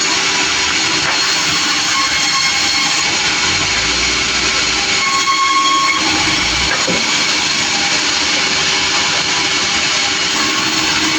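Sawmill running: a loud, steady mechanical noise from the mill's engine and saw, with a brief higher whine about five seconds in.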